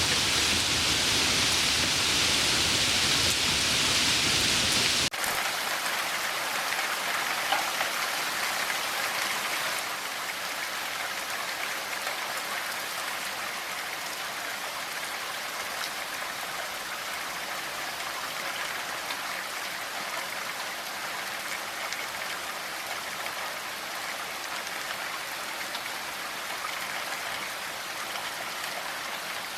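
Steady noise of water, such as rain or running water, with no other distinct sounds. It drops abruptly in level and loses its low end about five seconds in, and drops slightly again about ten seconds in.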